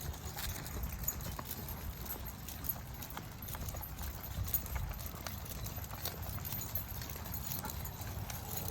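Steady footsteps of a walker and dogs on a trail, a run of irregular light ticks and footfalls over a constant low rumble.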